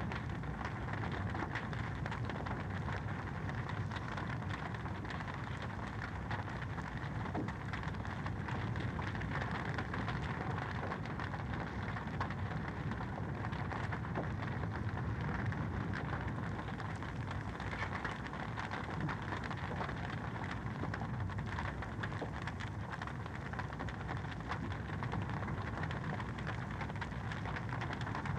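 Wood fire crackling in a fireplace: a steady hiss and low rumble dotted with many small pops.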